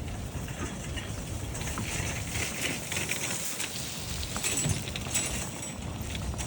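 Snowstorm weather outdoors: wind buffeting the microphone in an uneven low rumble over a steady crackling patter of precipitation.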